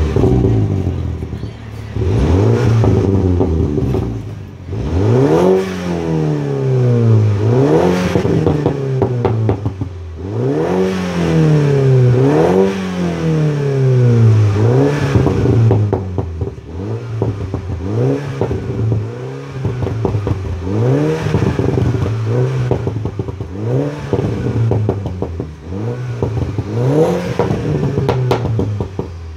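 2015 Mini Cooper S turbocharged four-cylinder revved over and over through an Invidia Q300 cat-back exhaust. The pitch climbs and falls back about ten times, each rev a couple of seconds apart, after a steadier running stretch at the start.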